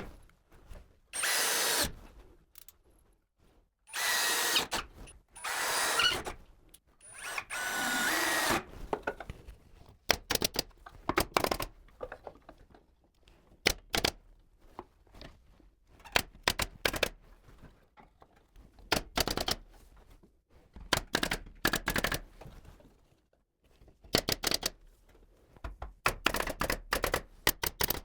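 Power drill on a ceiling-framing job, run in about five short bursts of a second or so in the first nine seconds. After that come many short, sharp knocks and clicks, in clusters.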